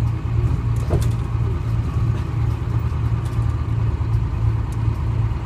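Detroit Diesel 6V71 two-stroke diesel engine of a 1970-71 GMC New Look bus running steadily, a low drone with an even pulse.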